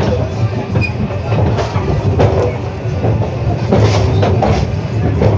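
Train rolling along the track: a steady low rumble with irregular knocks and rattles from the carriages and wheels.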